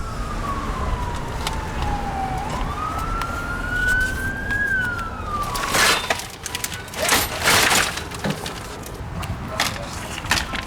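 A siren wailing in slow pitch sweeps, falling, rising, then falling again over a low steady rumble of traffic. Several loud bursts of noise come about halfway through.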